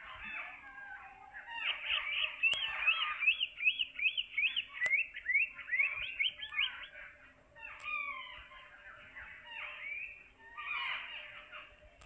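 Small birds chirping and calling over one another. About two seconds in, one bird gives a quick run of repeated rising-and-falling notes, about three or four a second, and there is another burst of chatter near the end.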